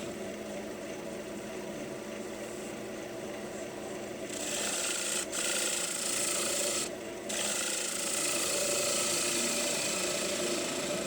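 Wood lathe running, with steady hum, while something held against the spinning green maple bowl rubs and rasps on the wood. The rubbing gets louder about four seconds in, breaks off briefly twice, then carries on.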